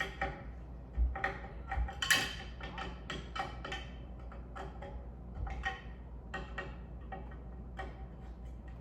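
Irregular clicks and light knocks of metal and plastic fan parts being handled while a ceiling fan blade is screwed onto its bracket, a few a second, over a low steady hum.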